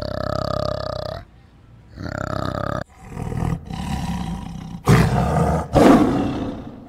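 A tiger growling and roaring, with two loud roars about five and six seconds in. Before that, a flanged male orangutan gives a steady low call.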